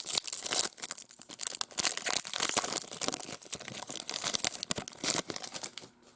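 Foil wrapper of a baseball card pack crinkling and tearing as it is opened, a dense crackle that stops near the end.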